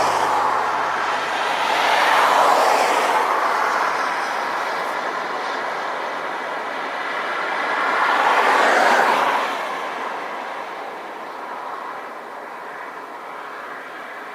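Cars passing on a rain-wet road: a rushing tyre hiss swells and fades three times, loudest about nine seconds in, then settles to a steady lower hiss.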